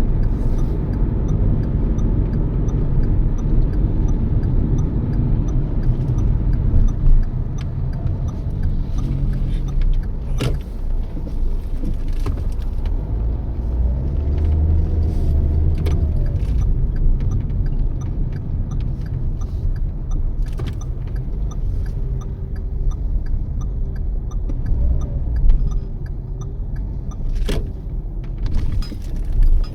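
Steady low road and engine rumble inside the cabin of a Toyota Yaris cruising on the highway, with a couple of sharp clicks about ten seconds in and again near the end.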